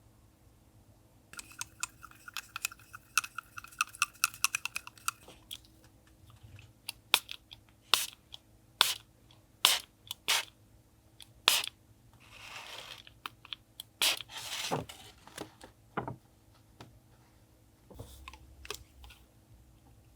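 Close-up handling of small craft items: a fast rattling run of clicks for a few seconds, then a string of separate sharp clicks and snaps, with two brief hisses near the middle.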